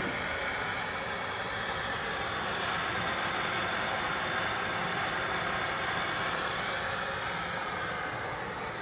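Steady rushing hiss of gas, easing off near the end, during work on an air-conditioner compressor.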